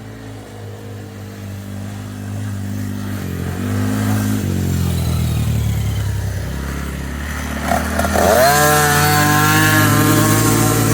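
Motocross dirt bike engine growing steadily louder as it comes closer, its note shifting in steps. About eight seconds in, the revs climb sharply and stay high.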